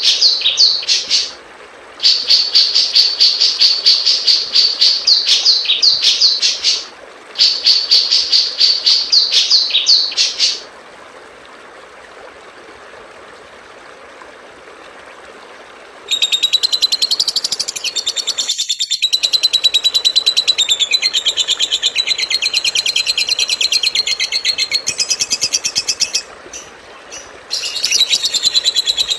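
Small songbirds singing fast, high-pitched chattering songs: three bursts of rapid repeated notes of about three seconds each, then a gap of hiss, then a different, longer fast trill from about halfway in, broken briefly near the end.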